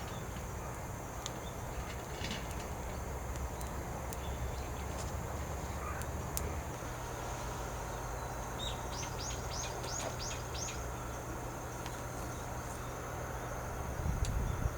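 Outdoor ambience with a steady low rumble and a few faint clicks; a little past the middle a bird gives a quick run of about eight high chirps.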